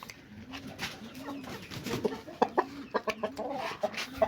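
Aseel rooster clucking in a run of low, repeated notes about twice a second, with a series of sharp clicks in the second half.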